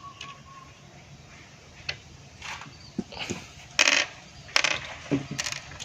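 Small metal carburetor parts clinking and tapping as they are handled and fitted together: a string of irregular sharp clicks, the loudest near the middle.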